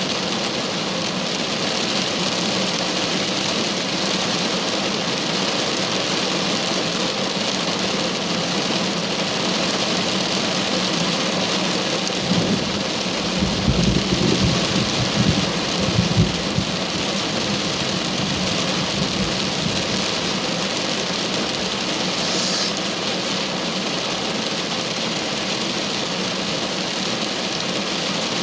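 Heavy rain falling steadily. About twelve seconds in, a rumble of thunder rolls for roughly four seconds.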